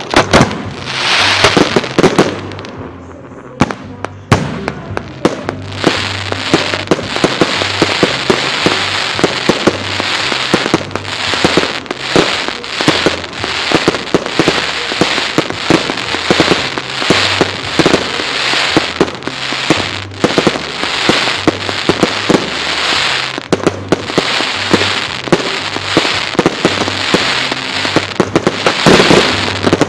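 Fireworks salute: shells launching and bursting overhead in quick succession, with dense crackling through most of it. Heavier bangs come in the first couple of seconds and again near the end.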